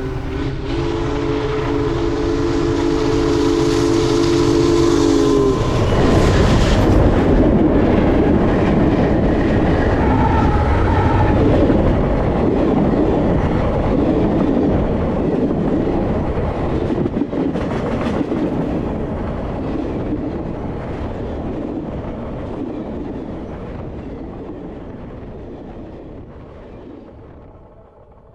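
A passing train: a chord-like train whistle sounds for about the first five seconds, then the heavy rumble and rail noise of the train take over, loudest a few seconds later, and fade away as it moves off.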